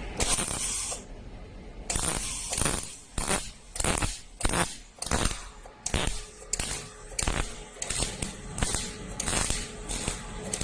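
CO2 gas-shielded MIG welding arc crackling in short, repeated bursts, about one to two a second.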